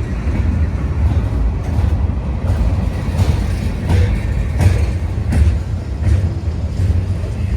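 Union Pacific freight train rolling slowly past a crossing: a steady heavy rumble with rhythmic clacks of the wheels over the rail joints, about one every three-quarters of a second.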